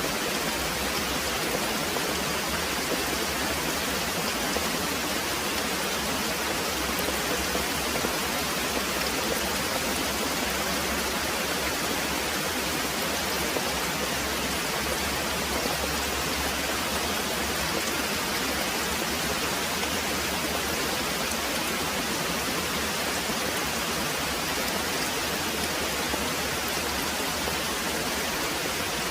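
Very heavy rain pouring steadily: an even, unbroken hiss with no distinct drops or thunderclaps standing out.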